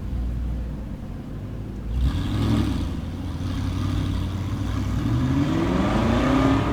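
Nissan GT-R engine running with a low rumble, then a sudden louder burst of revs about two seconds in, and its note rising steadily near the end as the car accelerates away.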